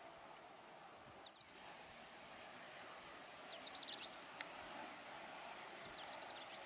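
Small birds chirping: three short clusters of quick, high, falling chirps, about a second in, midway and near the end. They sit over a faint steady background noise.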